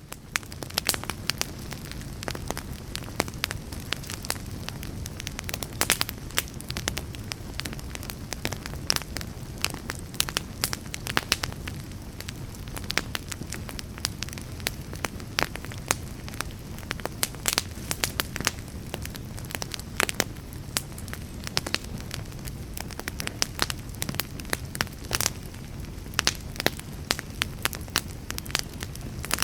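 Wood fire crackling steadily, with frequent sharp pops and snaps over a low rumble of burning.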